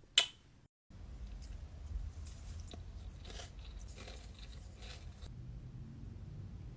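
Crunchy food being bitten and chewed close to the microphone, in scattered crackles over a low rumble. A sharp click comes just before the chewing, then a moment of dead silence.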